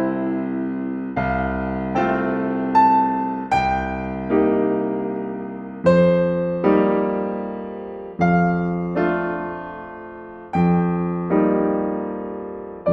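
Slow, gentle solo piano music: soft chords struck roughly once every second or two, each ringing and fading before the next.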